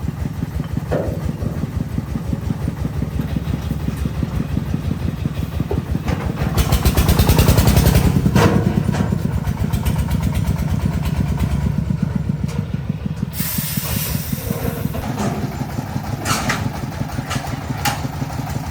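Truck engine running with a fast, even beat, getting louder as it revs about seven to eight seconds in. A short burst of hiss comes about thirteen seconds in.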